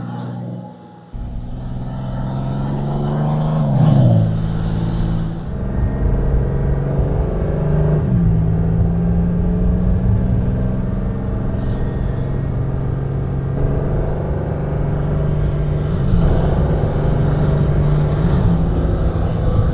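Porsche 911 Carrera GTS T-Hybrid flat-six boxer engine running under way at a steady note. The level drops briefly about a second in. The engine pitch falls sharply around four seconds in, changes again near eight seconds, and swings up and down a few times near the end as the car shifts gears and changes throttle.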